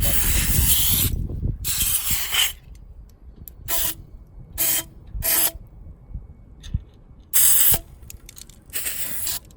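Aerosol silicone lubricant sprayed in seven short hissing bursts, the first two about a second long, onto the hinge joints of an electric scooter's folding mechanism to cure a squeak. A few faint mechanical clicks come between the bursts.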